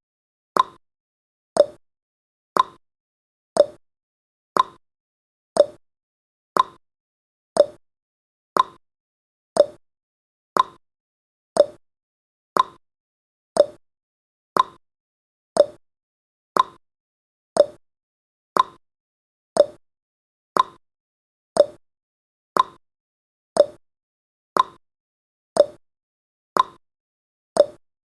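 Clock-tick sound effect of a countdown timer: one short, sharp tick every second, each dying away quickly, marking the seconds as they count down.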